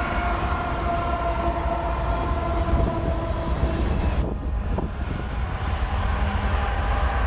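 Several diesel-electric freight locomotives passing close by, a steady rumble of engines and wheels on rail. About four seconds in, the sound changes abruptly to another passing train.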